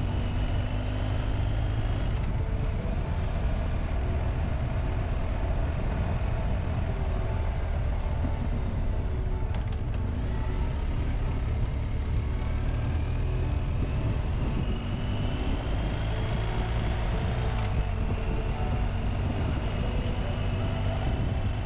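BMW R1250GS Adventure's 1254 cc boxer-twin engine running as the motorcycle rides at low speed, a steady low drone with a whine that rises slowly in pitch twice as the bike picks up speed.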